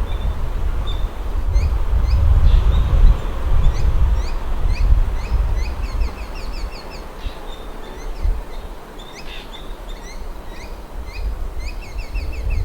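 Wild birds calling in repeated quick runs of short, falling notes, over a low rumble that is louder in the first half and fades about halfway through.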